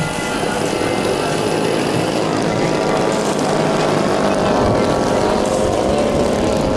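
Propeller engines of a giant-scale radio-controlled model airplane in flight, a steady drone whose pitch bends near the end.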